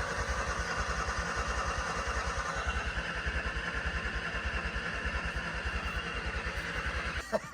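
2004 Ford Taurus V6 engine idling with a steady, even low pulsing, running on Dawn dish soap in place of engine oil and smoking.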